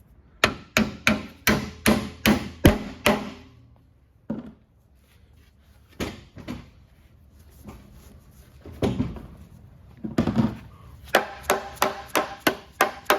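Plastic mallet tapping copper roof flashing down over the top of a wooden fence post. A quick run of about eight blows at roughly three a second comes first, then a few scattered knocks, then another steady run of blows near the end.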